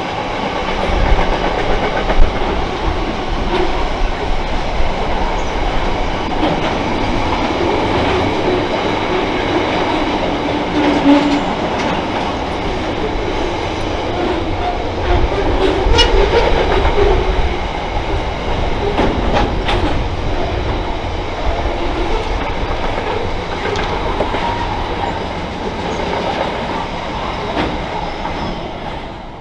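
Train rolling past at speed: steady noise of steel wheels on the rails, with a few sharp clicks. It begins to fade near the end.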